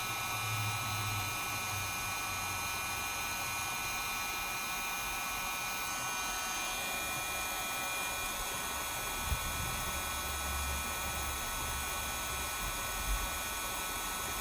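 Heat gun blowing steadily, a constant hiss with a faint whine, warming a phone part to soften its adhesive. A couple of small knocks about two-thirds of the way through and near the end.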